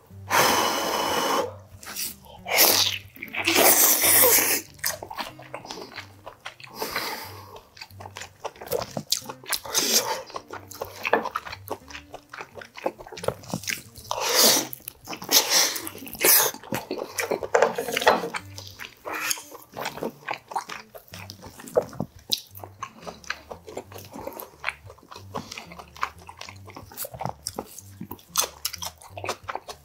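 Close-miked eating sounds: biting boiled oxtail meat off the bone and chewing it, wet irregular mouth clicks and smacks, with a loud breathy sound in the first second or so.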